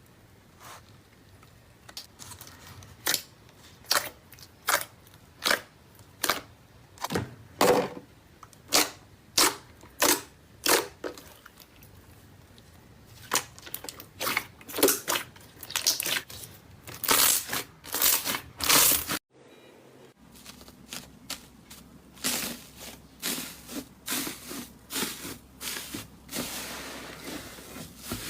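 Slime being squeezed and pressed by hand, giving a string of sharp wet pops and clicks, about one or two a second. The sound cuts out briefly about two-thirds of the way through.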